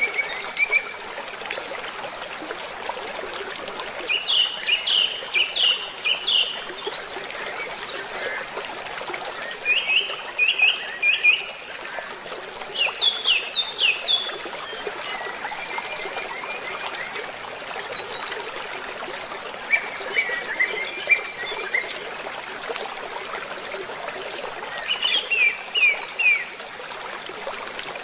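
Birds calling in short bouts of four to six quick, sharp, slightly falling notes, repeated every few seconds over a steady background hiss like running water.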